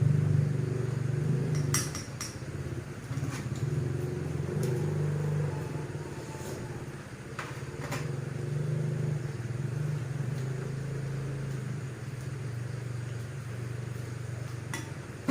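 An engine running steadily, louder for the first two seconds and then lower, with a few short sharp clicks.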